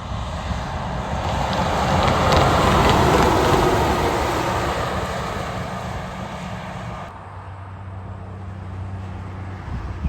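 A heavy truck passing by on a wet road: the rush of tyre spray and engine swells to a peak about three seconds in, then fades. About seven seconds in, the sound changes abruptly to a steady low engine hum.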